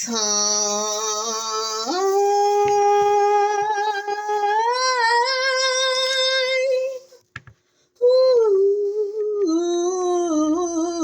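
A voice singing long, held notes that step up in pitch. The singing breaks off for a moment about seven seconds in, then resumes on lower notes.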